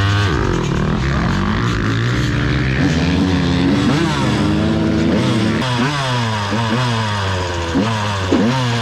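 Dirt bike engine revving, its pitch rising and falling with the throttle, with several quick throttle blips near the end.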